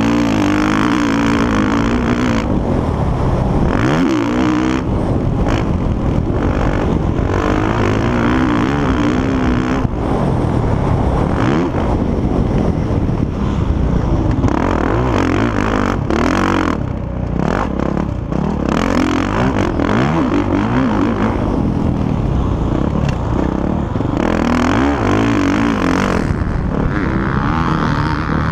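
Motocross motorcycles racing on a dirt track, their engines revving up and down over and over as they ride by.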